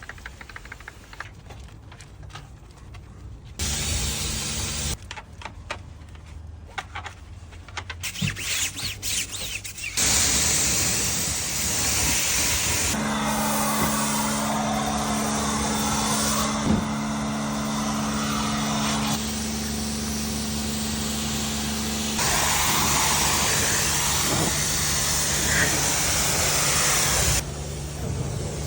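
A run of car-detailing work sounds that cut abruptly every few seconds: spells of hissing spray-like noise and spells of power tools running with a steady hum.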